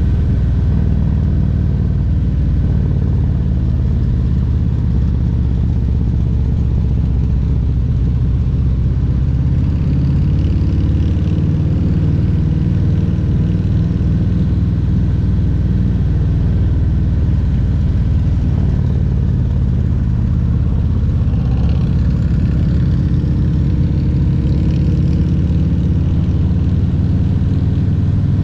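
Harley-Davidson Milwaukee-Eight 114 V-twin engine of a Road Glide Special running under way at road speed. Its pitch shifts up and down a few times as the throttle changes.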